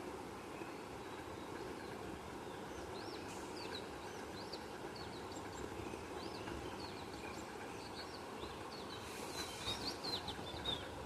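Birds chirping: a run of short, quick, arched chirps that starts about three seconds in and grows busier near the end, over a steady low background hum.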